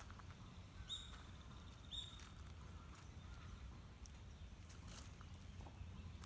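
A bird calls twice, two short high notes about a second apart, over a quiet outdoor background with scattered faint clicks.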